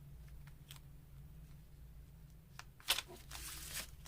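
Faint handling of paper pieces: light taps and rustles, a sharper click about three seconds in, then a brief rustle.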